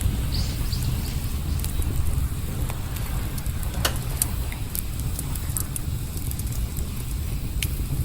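Campfire burning, wood crackling with scattered sharp pops, the loudest about four seconds in, over a steady low rumble.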